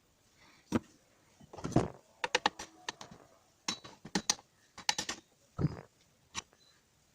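Metal parts and tools of a jeep starter motor being handled and taken apart: an uneven run of sharp clicks and knocks in small clusters, with two duller, heavier knocks.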